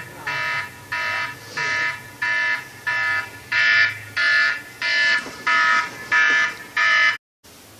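Loud electronic alarm-style beeping: about eleven even beeps, roughly one and a half a second, each several high tones sounding together. It cuts off suddenly about seven seconds in.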